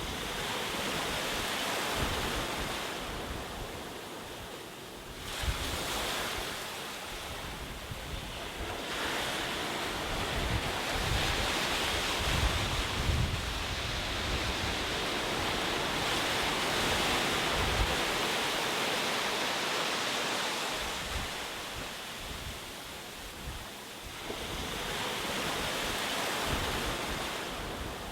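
Ocean waves washing onto a shore, each surge swelling and ebbing over several seconds, with some wind buffeting the microphone.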